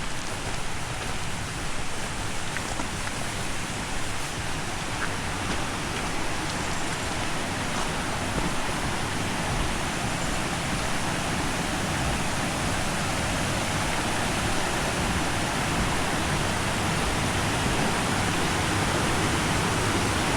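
Waterfall's steady rush of falling and churning water, a constant even noise that grows slightly louder toward the end.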